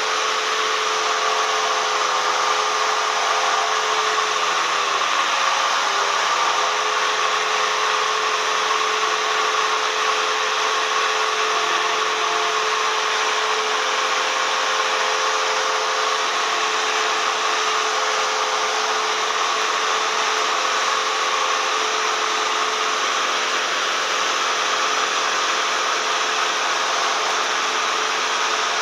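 Cessna 172M cabin noise in flight: the Lycoming four-cylinder engine and propeller drone steadily under a hiss of airflow. Their tone dips briefly and recovers about five seconds in.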